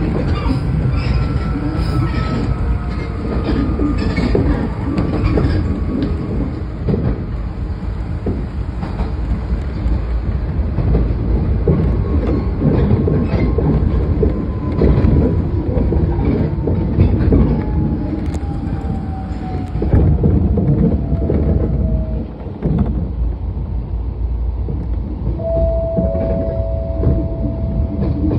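Nishitetsu electric train running, heard from the driver's cab: a steady rumble with wheels knocking over rail joints, and a whine that slowly falls in pitch as the train slows. Near the end a short, steady high squeal sounds as it comes into the station.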